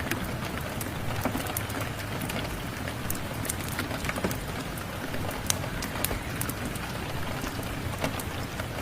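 Steady rain with the irregular sharp pops and crackles of a wood fire burning in a fireplace.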